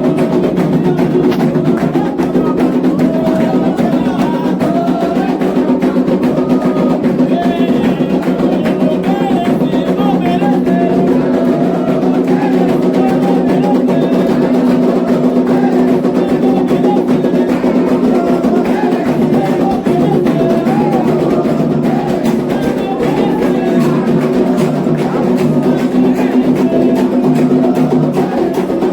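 Candomblé ritual drumming: atabaque hand drums played in a fast, continuous rhythm with group singing over it.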